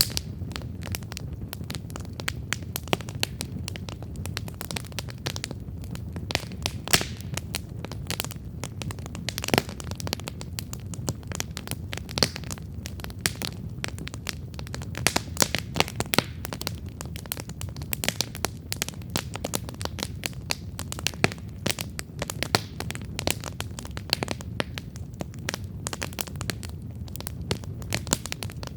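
Wood campfire burning, with a steady low rumble of the flames under dense, irregular crackles and pops of burning wood.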